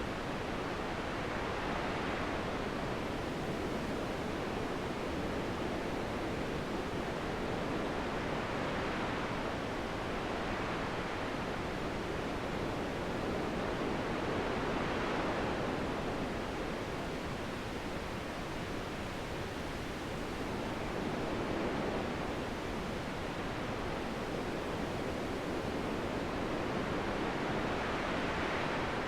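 Wind blowing in a steady rush, with gusts that swell and fade about every six or seven seconds.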